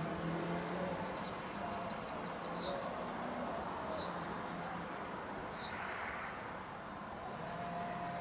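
A small bird chirping three times, short high falling notes about a second and a half apart, over a steady low background hum.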